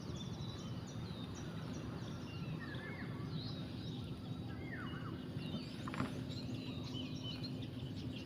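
Small birds chirping and calling, many short rising and falling notes, over a steady low background rumble; a low steady hum joins after a couple of seconds.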